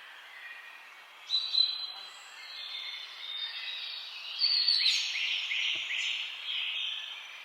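Several songbirds singing and calling: a sharp call about a second in, then a quick run of repeated falling notes near the middle, over a faint steady background hiss.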